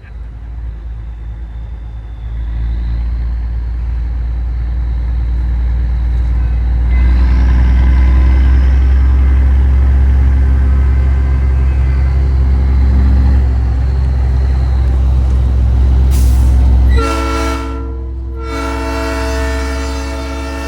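Heavy low rumble of a semi-truck moving in convoy, growing louder about seven seconds in. About seventeen seconds in, a Nathan Airchime P3 train-style air horn sounds a steady chord, breaks off briefly, then sounds again and holds.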